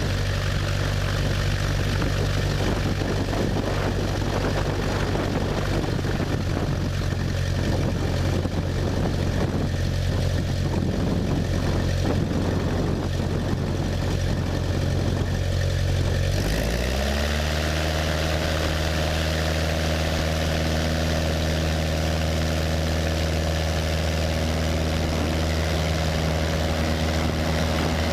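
Cessna 172's piston engine and propeller droning steadily. About two-thirds of the way through, the pitch rises quickly over about a second and then holds steady higher as the engine speeds up.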